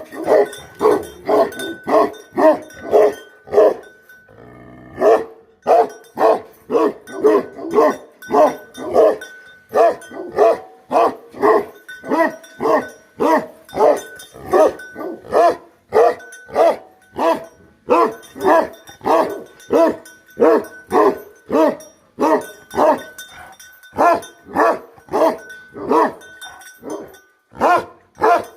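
Bhote Kukur, a Tibetan Mastiff-type guardian dog, barking repeatedly and steadily at about two barks a second, with a brief break about four seconds in.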